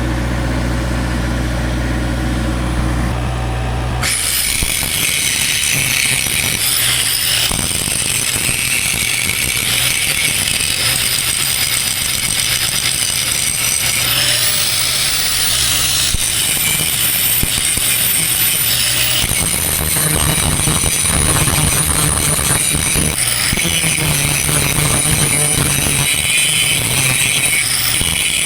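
An engine idling steadily, then from about four seconds in an angle grinder with a grinding disc grinding down welds on steel, a continuous high-pitched grinding noise.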